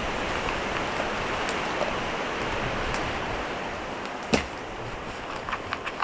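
Steady rushing of wind, easing slightly in the second half, with scattered small crackles and one sharp knock about four seconds in.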